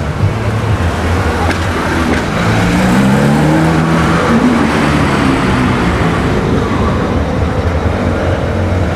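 Performance car engine revving as it pulls away, its note climbing in pitch from about two to five seconds in, over a steady low exhaust rumble.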